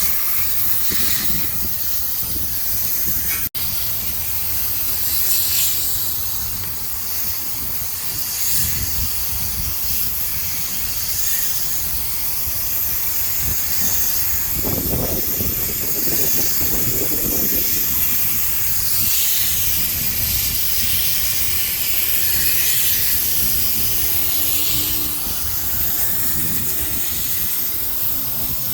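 Water spraying steadily onto a rooftop HVAC unit's condenser coil, rinsing off acid coil cleaner: a continuous hiss, broken very briefly a few seconds in.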